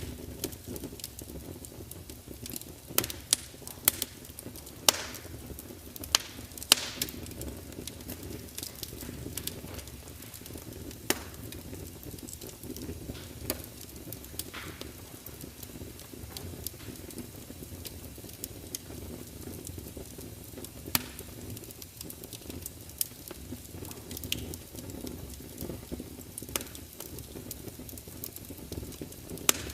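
Log fire burning in a large fireplace: a steady low rumble of flame under frequent sharp crackles and pops, thickest a few seconds in.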